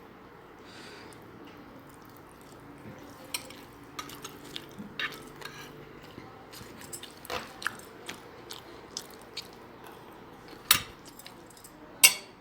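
Close-up eating sounds of a person chewing rice and tilapia: a run of small wet clicks and smacks from the mouth, with two sharper knocks near the end.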